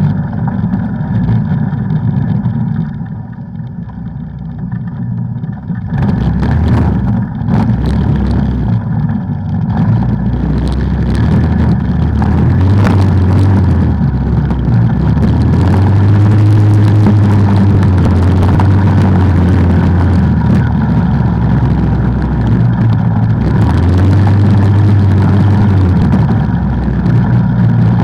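An off-road ATV engine running under changing throttle on the trail, with a steady low rumble. It eases off about three seconds in, picks up again about three seconds later, and runs harder and steadier through the second half.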